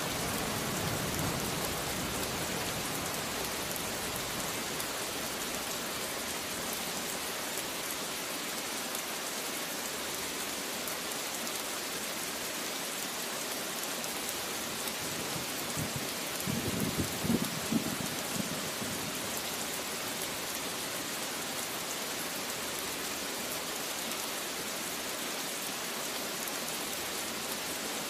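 Steady rain falling, an even hiss throughout. A short rumble of thunder breaks in a little past the middle, and a fading low rumble lingers at the start.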